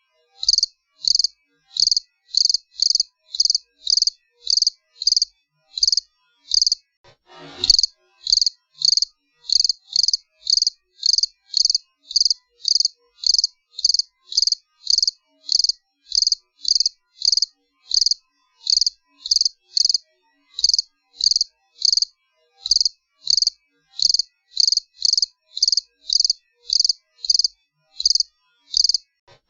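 Cricket chirping steadily in short, high-pitched, evenly repeated chirps, about two a second. About a third of the way in, a brief, quieter sound falls from high to low pitch under the chirping.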